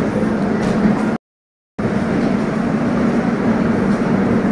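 Indian Railways passenger train alongside the platform: a steady rumble with a constant low hum. The sound cuts out completely for about half a second a little over a second in.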